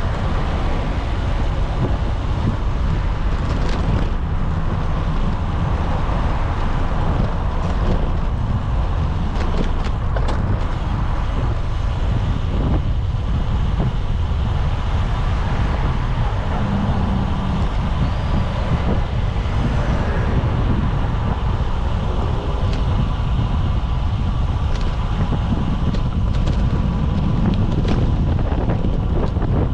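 Wind rumbling steadily on the microphone of a moving bicycle, with road traffic noise underneath.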